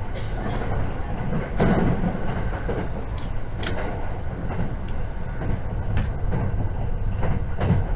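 Cabin noise of a JR 681-series electric multiple unit running at speed: a steady low rumble from the running gear, broken by several sharp clacks of the wheels over rail joints.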